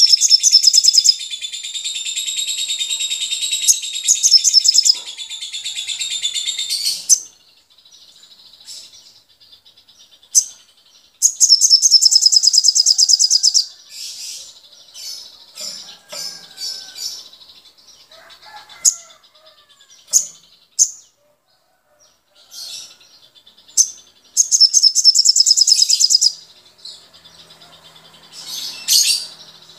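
Caged songbirds singing: a dense, continuous high warbling song for about the first seven seconds, then scattered short chirps broken by two bursts of fast rattling trill, one a little before the middle and one near the end.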